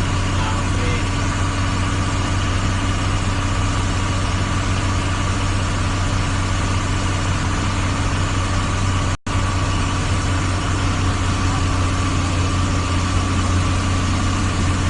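A vehicle engine running steadily at idle, a constant low hum over an even rushing noise, with a brief dropout about nine seconds in.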